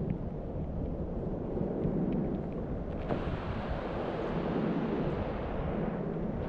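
Wind buffeting the microphone: a steady rumbling rush that grows brighter about three seconds in.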